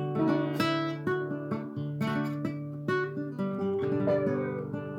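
Acoustic guitar music: strummed and picked notes over a held bass line in an instrumental passage, with one note sliding down in pitch about four seconds in.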